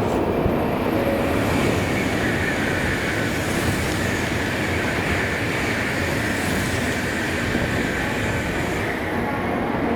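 Sanyo Shinkansen train running along the platform: a steady, loud rush of wheel, rail and air noise, with a high hiss that swells in the middle.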